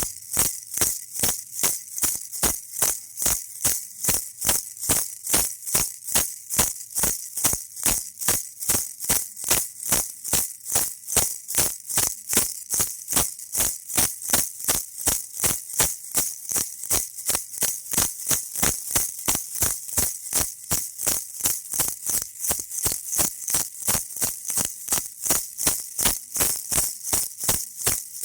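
Baby rattle shaken steadily in an even rhythm, about three bright rattling shakes a second.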